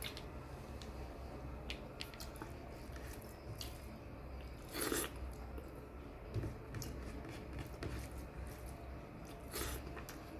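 A person chewing food close to the microphone, with small wet clicks and smacks of the mouth and a louder bite about five seconds in.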